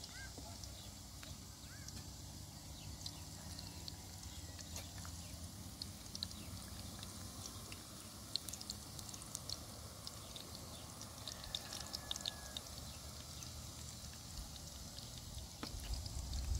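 Eggplant slices frying in hot oil in a pan, crackling with many small scattered pops, over a low steady rumble.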